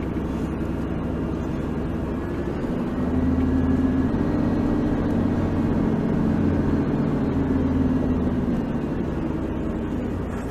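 Four-wheel drive vehicle's engine running as it drives down a steep sand track. It grows louder about three seconds in and eases off again near the end.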